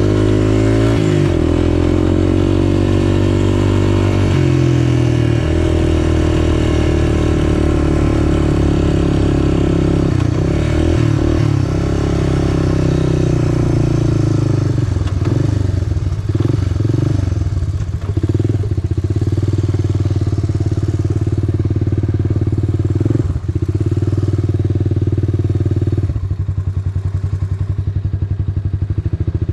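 Off-road vehicle engine running close to the microphone while riding a trail, its pitch rising and falling with the throttle, with some clatter. It drops to a lower, slower run near the end.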